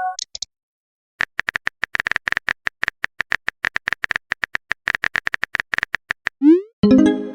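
Rapid clicking of a phone-keyboard typing sound effect for about five seconds. Near the end comes a short rising swoosh and then a chime, the sound of a chat message being sent or received.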